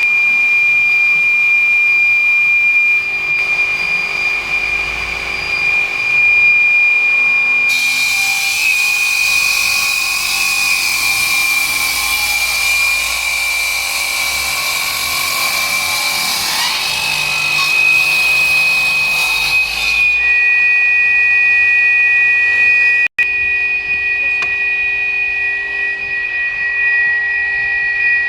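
Stone-cutting saw with a cantilever saw head running with a steady high whine. From about a quarter of the way in until about two-thirds through, a harsh hiss joins it as the blade cuts into the stone; after that the saw spins on with a second, slightly lower whine, cut by a very short gap.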